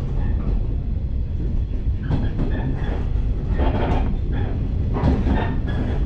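Electric train running, heard from inside the carriage: a steady low rumble of wheels on rails, with a few sharper clacks about two, four and five seconds in.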